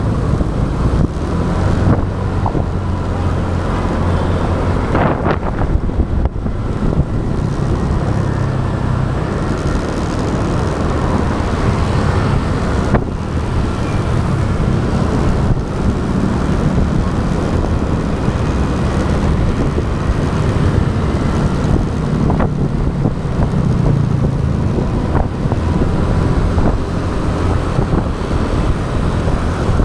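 Motorbike engine running at riding speed, with wind buffeting the action camera's microphone and road traffic around it; a steady low rumble throughout.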